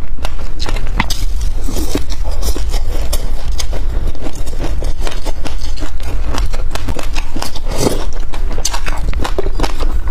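Close-miked chewing of a mouthful of sesame seeds: a dense run of small crunchy clicks, with a metal spoon scraping and scooping seeds in a glass dish, over a steady low hum.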